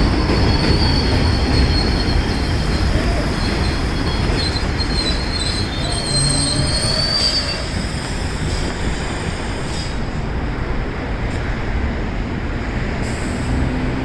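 R42 subway train running through the station, its wheels squealing on the rail over a steady loud rumble. The squeal is a high whine that wavers and rises, then stops about halfway through.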